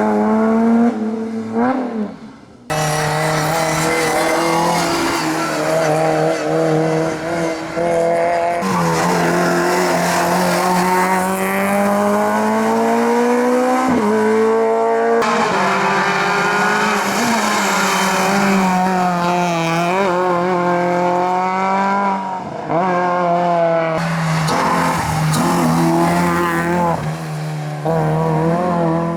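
Competition cars at full throttle, engine notes climbing and dropping through gear changes and braking, with tyres squealing at times. The sound jumps abruptly several times, about three, nine, fourteen and twenty-four seconds in.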